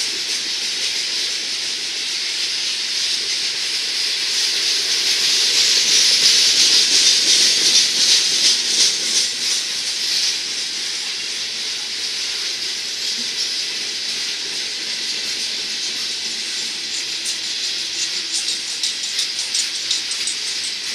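Coal hopper cars of a freight train rolling past, their steel wheels making a steady hiss on the rails. It is loudest a quarter to half way through. Quick runs of clicks from the wheel sets come near the start and again near the end.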